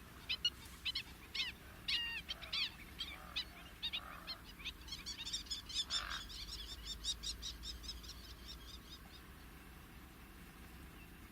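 Fork-tailed drongo singing: a run of short, sharp, varied notes, then about halfway through a fast string of repeated notes that fades out well before the end.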